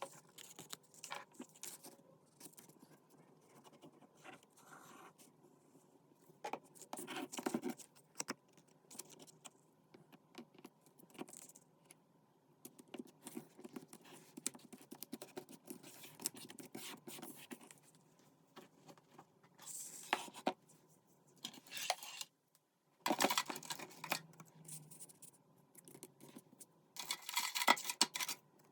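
Paper-craft materials being handled on a desk: scattered light taps, clicks and scrapes, with louder rustling bursts about 7, 20, 23 and 27 seconds in.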